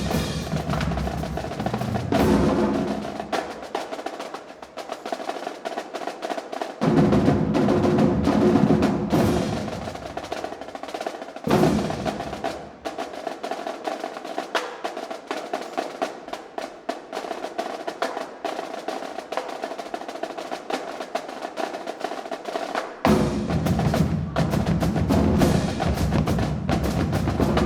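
Marching drumline playing a cadence: rapid snare drum rolls and strokes, with bass drums coming in and dropping out in sections.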